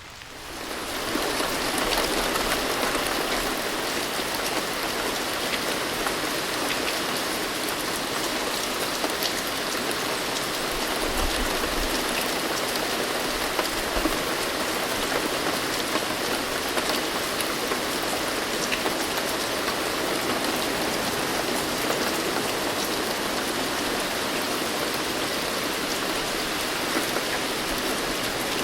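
Steady, heavy rainfall: a dense, even hiss of drops with scattered sharper drop ticks. It swells in over the first second or so, then holds steady.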